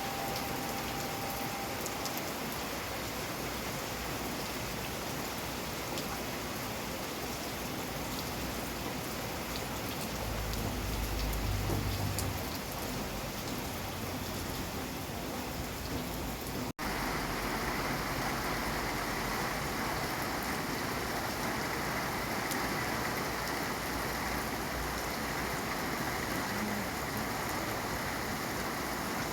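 Steady rain falling, an even hiss of many drops. A low rumble swells briefly a little before the middle, and about two-thirds of the way through the sound cuts out for an instant, then carries on with a slightly brighter hiss.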